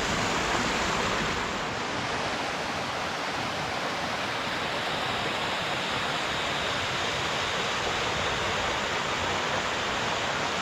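Small rocky stream rushing and splashing over boulders in little falls: a steady, even rush of water.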